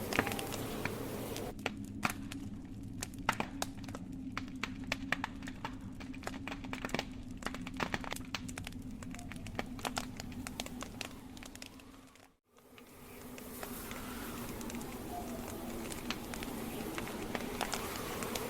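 Wood campfire crackling: burning logs snapping in many sharp, irregular pops over a steady low rush. The sound fades out briefly about twelve seconds in and then comes back, with fewer pops.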